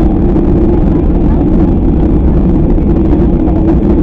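Steady rumble of an airliner cabin with the jet engines running, heard from inside the cabin.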